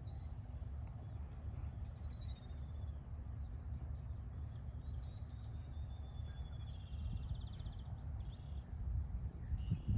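A songbird singing faintly: a long, thin, high note sliding slowly downward, then another falling note that ends in a quick buzzy trill about seven seconds in, over a steady low outdoor rumble.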